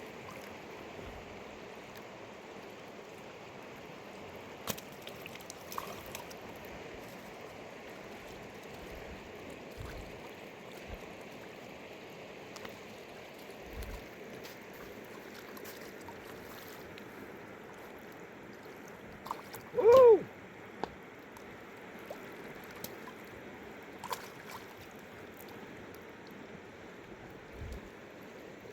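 A river or stream runs with a steady rushing sound. About twenty seconds in, a brief, loud, pitched call cuts across it, and a few faint clicks and knocks come and go.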